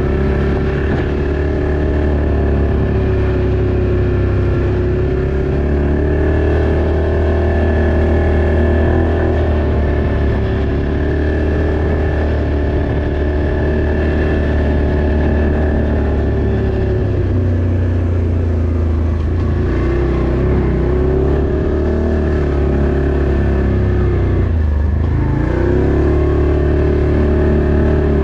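Off-road vehicle engine running steadily under way, its pitch rising and falling gently with the throttle, with a constant low drone underneath.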